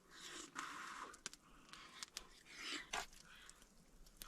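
A person quietly chewing a mouthful of steak, with a few soft breaths and small clicking mouth sounds.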